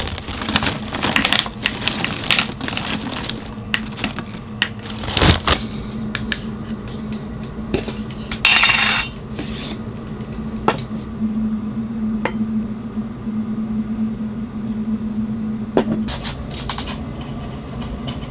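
Clinks and taps of dishes and cutlery being handled, with a short hiss about eight and a half seconds in, over a steady low hum that stops near the end.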